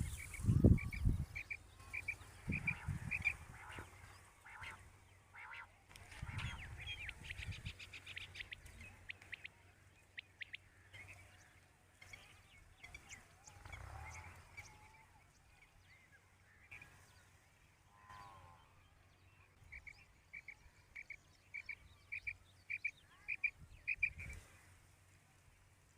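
Quail calling: a run of short, high notes about three a second, repeated at the start and again near the end. A loud low thump comes just after it begins.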